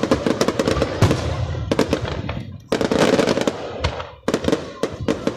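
Aerial fireworks bursting in a rapid, dense string of cracks and bangs. They break off briefly about two and a half seconds in, fire another flurry, then thin out to scattered cracks near the end.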